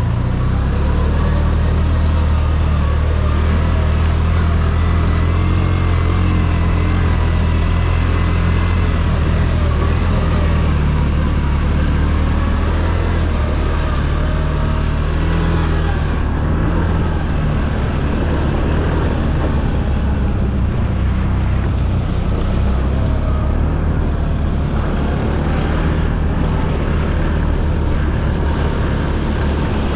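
ATV engine running steadily, a low engine hum with road and wind noise over it; the high hiss drops away about halfway through.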